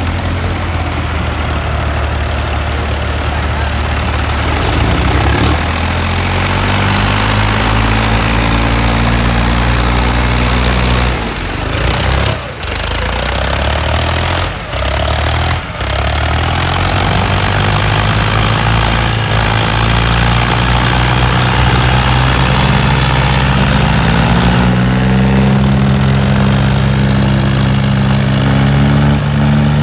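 Diesel tractor engine running hard, its revs climbing and then holding high, with a few short drops in the middle before it revs up again to a higher, steady pitch.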